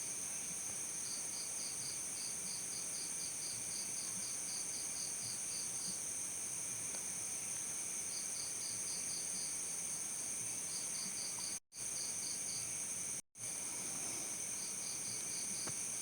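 Crickets chirping: a steady high-pitched trill runs underneath, while another cricket chirps in runs of about four chirps a second that stop and start. The sound cuts out twice, briefly, about three-quarters of the way through.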